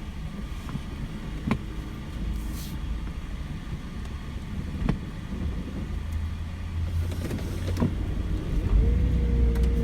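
Car running, heard from inside the cabin as a steady low rumble with a few faint clicks. The rumble grows louder near the end.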